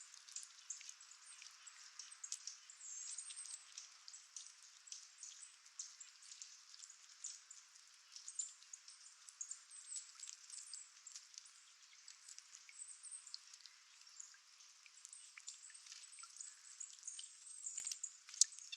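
Faint outdoor ambience of scattered light ticks and patters with thin, high bird chirps now and then.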